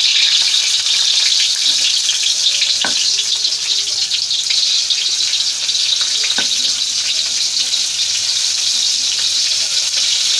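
Ground chili, shallot and garlic spice paste sizzling in hot oil in a stainless steel wok as it is stir-fried, a steady sizzle with two short knocks about three and six and a half seconds in.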